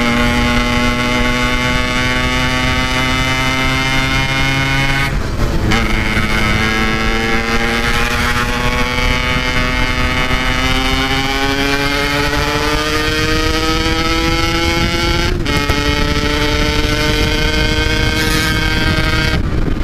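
Yamaha RX-King two-stroke single-cylinder motorcycle engine running under way at steady throttle, its note slowly climbing in pitch. There are two brief breaks in the sound, about five and fifteen seconds in, after which it carries on.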